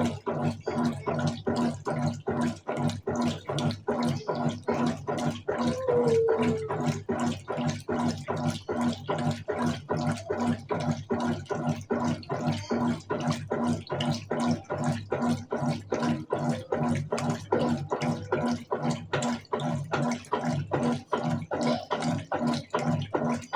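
Colormaq Eco Max 14 kg top-loading washing machine in its wash agitation: water sloshing in the tub in a rapid, even rhythm of several pulses a second over a steady motor hum.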